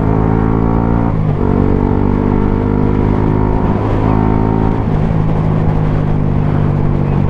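125cc single-cylinder motorcycle engine with a Mivv GP Pro exhaust running at steady cruising revs, with brief dips in pitch about a second in and again around four to five seconds in as the throttle changes.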